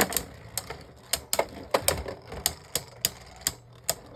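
Two Beyblade Burst spinning tops clashing repeatedly in a plastic stadium: irregular sharp plastic clicks, about three or four a second, as the Leviathan keeps striking the Genesis.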